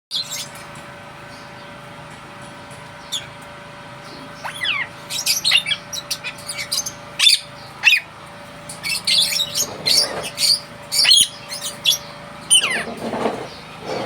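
Pet parrots chirping and calling: short, high chirps, some sliding in pitch, coming thick and fast from about four seconds in, over a faint steady hum.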